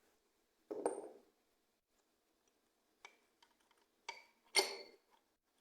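A few light metallic clinks and knocks as loose engine parts, a connecting rod and its cap, are handled: one about a second in and two more close together near the end.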